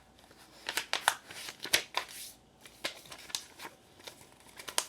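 A sheet of paper being folded and creased by hand: an irregular string of sharp rustles and crackles, busiest in the first couple of seconds.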